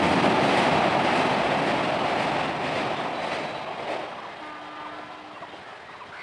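Express train's coaches rolling away across a steel truss railway bridge, a steady rumble of wheels on rails that fades after about four seconds as the end of the train draws off.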